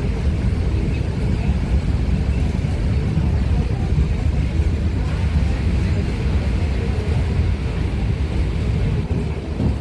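Train running at speed: a steady low rumble.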